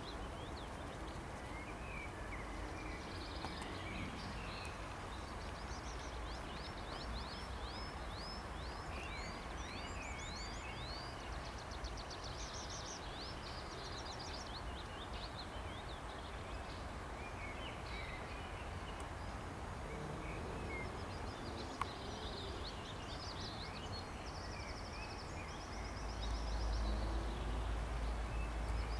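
Songbirds singing repeated series of high chirps and quick sweeps over a steady outdoor hiss, with a low rumble that grows stronger near the end.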